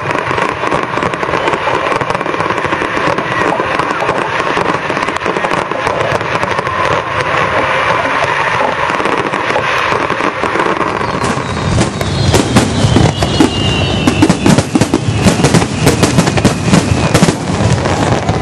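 Fireworks display going off over a chattering crowd. About twelve seconds in it turns into a dense, rapid crackle of many small pops.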